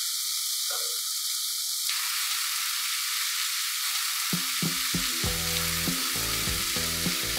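Onion-tomato masala frying in oil in a non-stick kadai, with a steady sizzle. About four seconds in, low sounds and light knocks join it.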